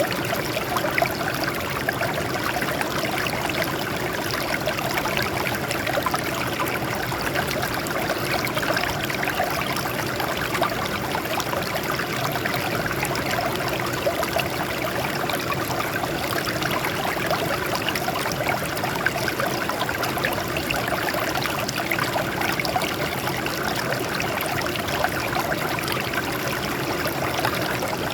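Water flowing and trickling over rocks in a small stream, a steady, busy splashing with no let-up.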